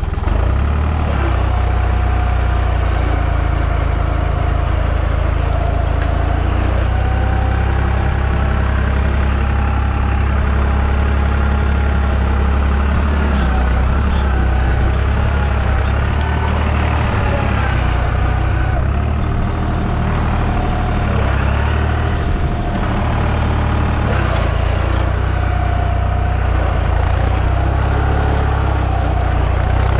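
Deutz 55F tractor engine running steadily while pulling a field cultivator, a constant low drone with a fainter wavering whine above it.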